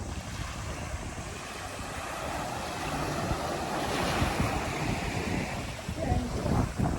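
Ocean waves breaking and washing on the shore, with wind buffeting the microphone as a low rumble; the surf swells up about three to four seconds in.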